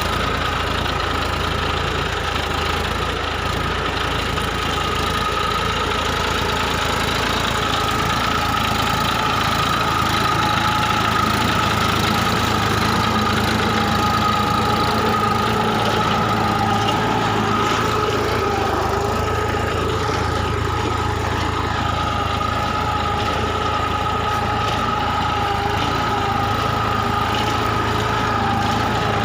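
Massey Ferguson 246 DI Dynatrack tractor's diesel engine running at a steady speed.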